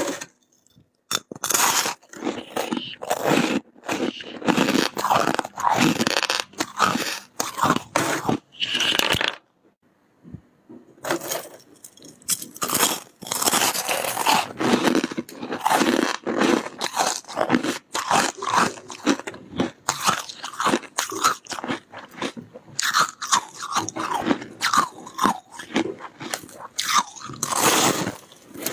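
Soft, powdery freezer frost being bitten and chewed close to the microphone: a rapid run of crunches, with a short pause about ten seconds in.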